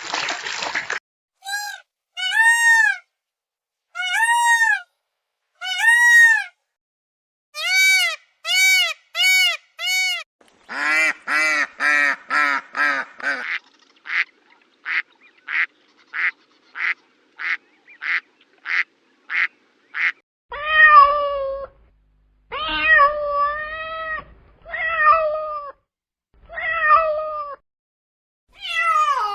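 A string of animal calls, one after another: first several drawn-out, rising-and-falling calls like cat meows, then quicker repeated calls. A run of evenly spaced short calls follows at about two a second, and longer wavering calls come near the end.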